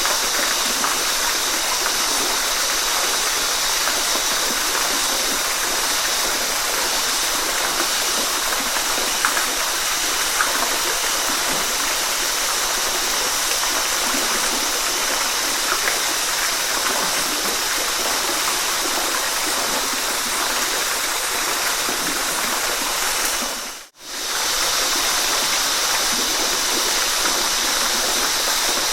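Waterfall: a steady, dense rush of falling water. About 24 s in it fades out to near silence and straight back in within half a second.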